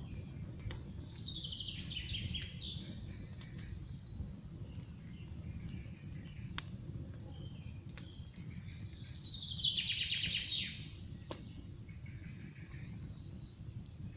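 A wood campfire crackles with a few sharp pops over a low steady rumble. A songbird sings a quick falling trill twice, about a second in and again, louder, near ten seconds.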